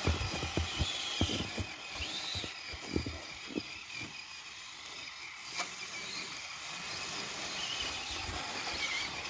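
Small electric motor whine of a radio-controlled crawler truck driving through snow, its pitch rising briefly about two seconds in, with scattered low thumps.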